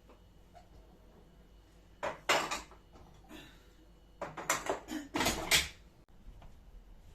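Dishes being handled, clattering loudly in two short bouts: one about two seconds in and a longer one past the middle.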